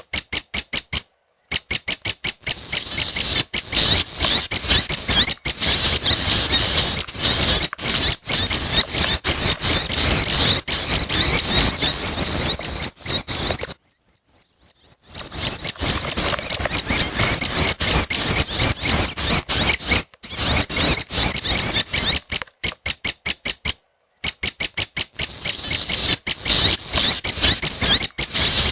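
Juvenile prenjak (prinia) birds calling: a dense, rapid, high-pitched chittering of begging notes, with a pause of about a second around halfway.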